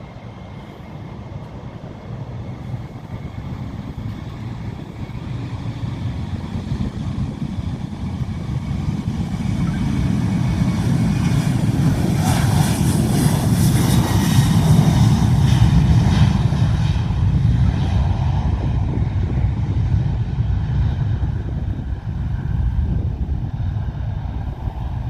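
An airplane passing close by, its engine noise building over about a dozen seconds to a loud peak around the middle, then slowly fading with a deep rumble.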